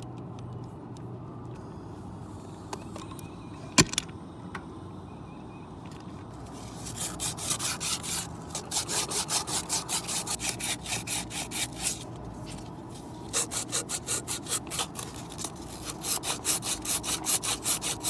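Hand sawing through copper refrigerant tubing: rhythmic back-and-forth saw strokes, about three a second, starting about seven seconds in, with a couple of short pauses. Before the sawing there is a low steady hum and a single sharp knock.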